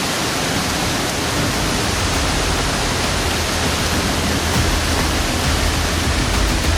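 Torrential rain and rainwater pouring and rushing, a loud, steady hiss.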